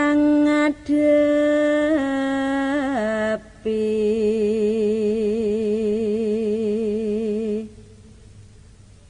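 A solo voice sings a slow, unaccompanied Javanese tembang in long held notes, stepping and gliding down in pitch. The last note is held about four seconds with a wide vibrato, then stops about three-quarters of the way in.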